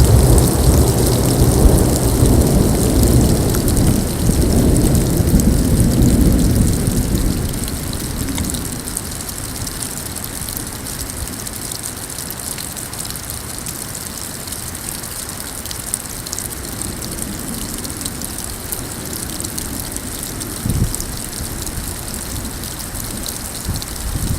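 Thunder rumbling and fading away over the first several seconds, then a steady hiss of rain and hail falling, with many small ticks of hailstones.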